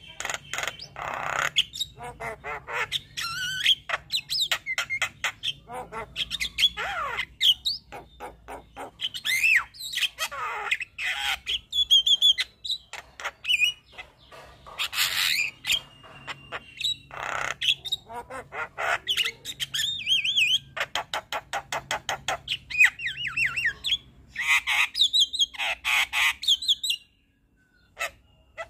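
Javan myna singing a long, varied song of harsh squawks, rapid rattling clicks and sweeping whistled notes, with a short pause near the end.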